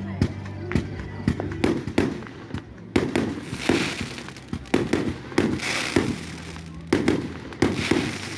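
Fireworks going off: a rapid series of sharp bangs, about two a second, with a crackling hiss joining in from about three seconds in.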